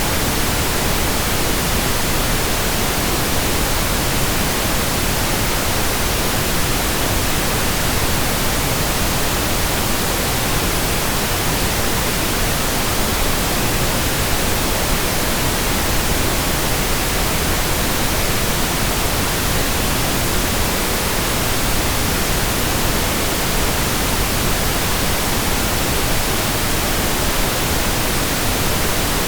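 Steady pink noise: an even, unchanging hiss spread across all pitches, with more weight in the low end than white noise.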